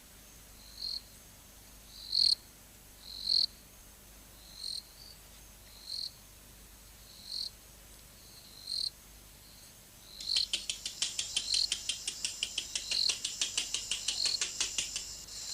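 Night insects chirping: short high chirps repeat about every second and a half, and about ten seconds in a fast pulsing trill joins them.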